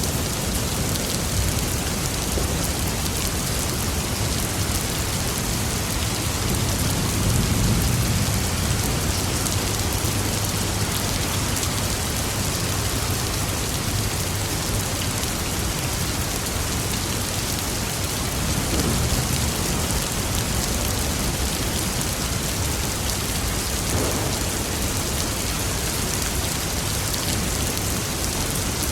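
Steady rain falling on a surface during a thunderstorm, with a low roll of thunder swelling about a quarter of the way in and fainter rumbles later.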